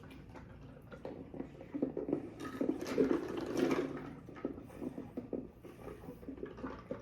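Wet, irregular eating sounds close to the microphone: a forkful of cheesy pizza roll casserole being taken and chewed, loudest about two to four seconds in.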